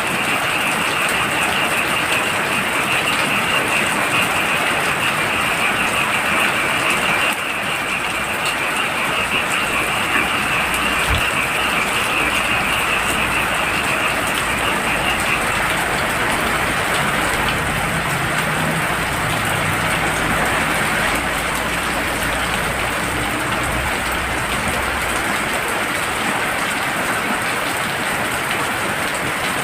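Heavy rain falling steadily, with a chorus of frogs calling in a shrill, pulsing band that fades out about halfway through. A low rumble joins for several seconds in the second half.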